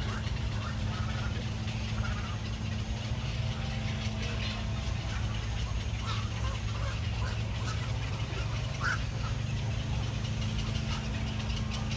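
Scattered short bird calls, possibly waterfowl, over a steady low hum.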